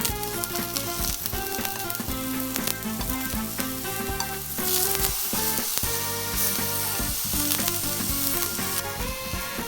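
Vegetables sizzling as they fry in a pan, with stirring, over background music.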